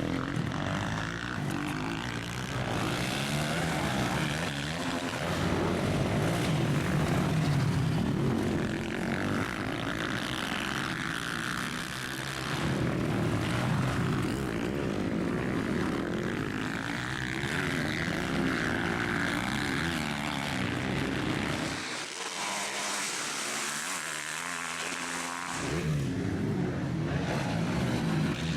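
Motocross bikes racing, their engines revving up and down through the gears as they pass. About three-quarters of the way through, the deep part of the engine sound drops away for a few seconds before returning.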